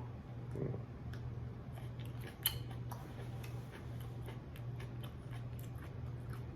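A person chewing a fresh hot pepper pod: soft, irregular crunchy mouth clicks, with one sharper click about two and a half seconds in, over a steady low hum.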